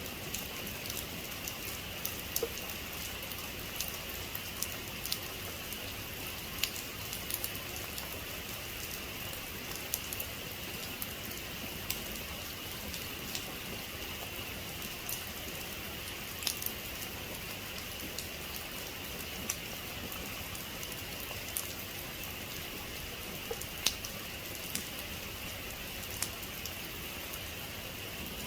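Steady heavy rain, an even hiss with scattered sharp drop hits clicking against a hard surface.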